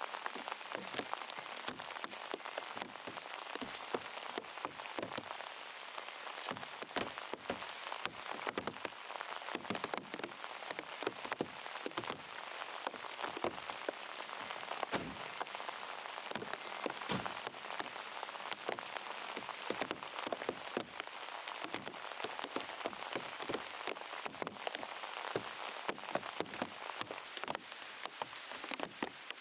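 Steady rain, with raindrops tapping loudly and irregularly on a plastic sheet wrapped over the camera.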